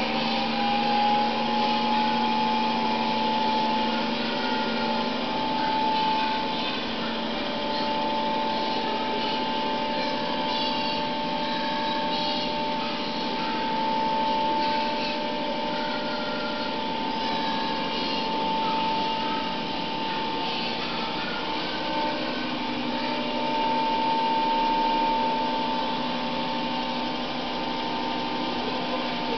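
iClebo Smart robot vacuum cleaner running, its motor giving a steady whine.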